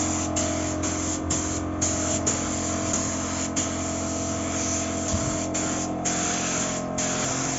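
Aerosol spray-paint can hissing in repeated passes, the spray broken by short gaps.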